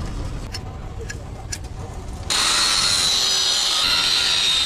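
A low rumble with a few clicks, then about halfway in a power tool starts suddenly and runs steadily with a loud, high-pitched whine.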